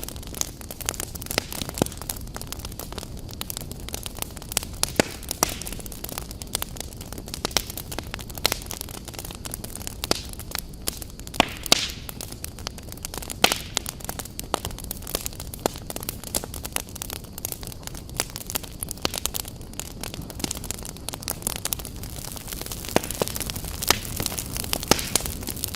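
Wood fire burning in a fireplace: a steady low rush with frequent irregular sharp crackles and pops.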